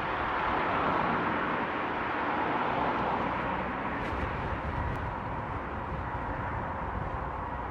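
A passing vehicle, heard as a steady rush of noise that is loudest about a second in and then slowly fades.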